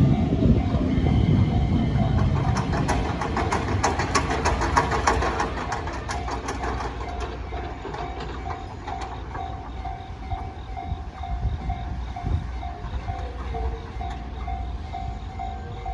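A train passing over a level crossing: a loud rumble with rapid wheel clicks that fades away over the first several seconds. Through it and after it, the crossing's warning bell keeps ringing in a steady, evenly repeated ding.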